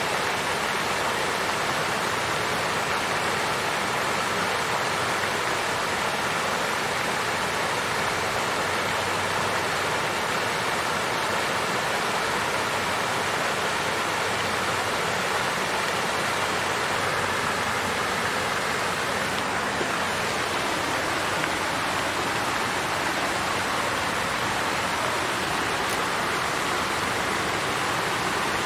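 Water fountain flowing and splashing steadily, an even unbroken wash of water sound.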